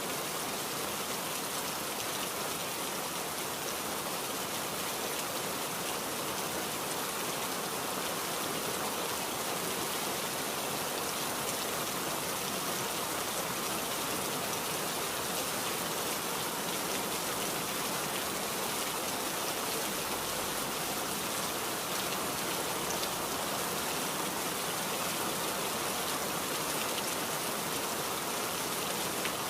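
Steady rainfall, the patter of many drops on surfaces.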